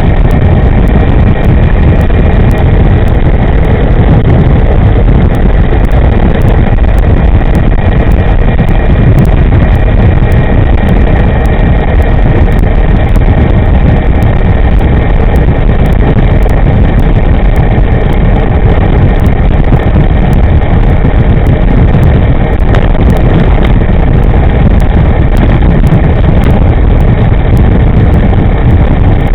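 Wind buffeting the microphone on a moving electric scooter: a loud, steady rumble with no engine note, and a faint thin whine running through it.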